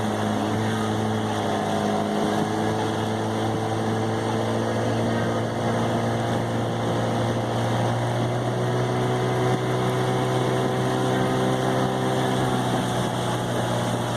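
Motorboat engine running steadily, a constant low drone whose pitch drifts slightly up and down.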